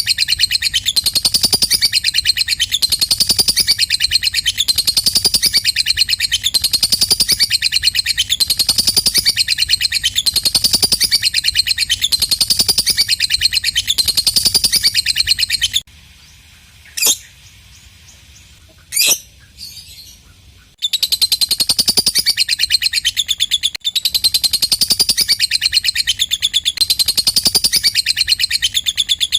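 Lovebird 'ngekek': a long, rapid, unbroken high-pitched chattering trill in repeating phrases. It breaks off about halfway through for some five seconds, with two short sharp chirps in the gap, then starts again.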